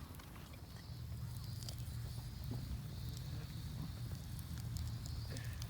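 Small wood fire crackling in a Picogrill folding fire pit, with scattered sharp pops over a steady low rumble.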